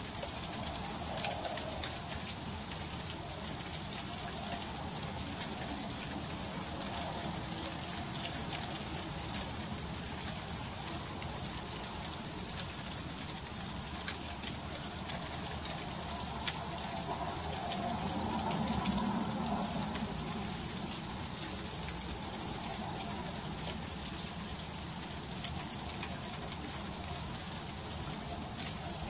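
Freezing rain falling steadily: a constant high hiss dense with fine ticks as the drops strike icy surfaces.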